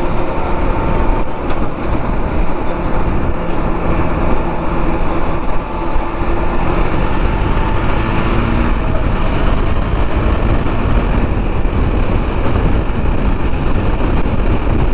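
Riding sound of a KTM Duke 390: its single-cylinder engine running at speed under heavy, steady wind rush and road noise.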